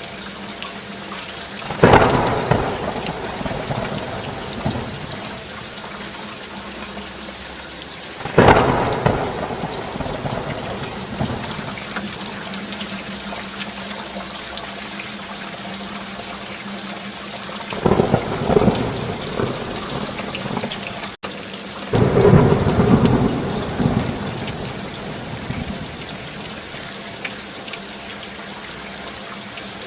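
Steady rain falling, with thunder clapping and rumbling four times, each peal dying away over a few seconds. The sound cuts out for an instant shortly before the last peal.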